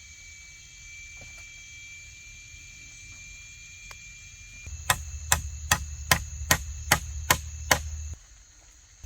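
A blade chopping: eight sharp, evenly spaced strikes, about two and a half a second, starting about five seconds in. Before them there is only a faint, steady high-pitched background tone.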